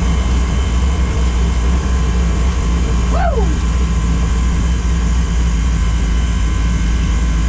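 Car engine running at a steady idle, a deep, even rumble with no revving; a brief voice sound cuts in about three seconds in.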